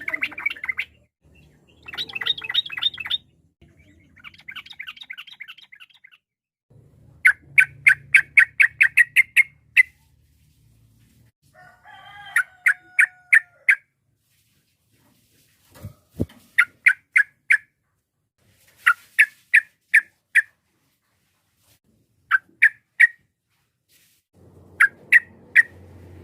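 Sooty-headed bulbul (trucukan) singing in repeated bursts of fast, rolling, chattering notes, each burst lasting one to three seconds with short silent gaps between.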